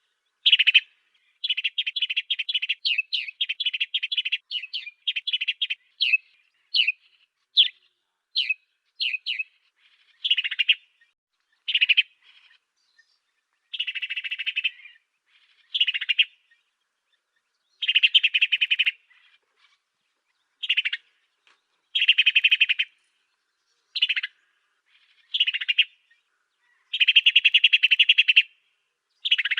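Songbird sold in the Indonesian bird trade as 'burung gereja afrika' (African sparrow) singing. It opens with a quick run of short high chirps, then sings separate buzzy chirping phrases about a second long with short pauses between them.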